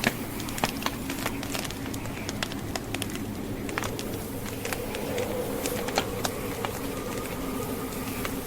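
Wood fire crackling, with sharp pops scattered irregularly over a steady blizzard wind that carries a low, wavering moan.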